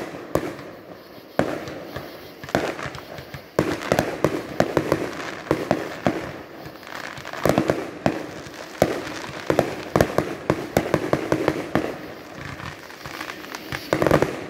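Consumer aerial fireworks launched from the ground and bursting just overhead: a near-continuous run of sharp pops and crackles, several a second, with louder bangs scattered through.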